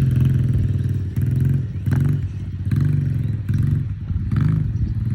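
Small ATV (quad) engine running while being ridden, its sound swelling and easing about once a second as the throttle is worked.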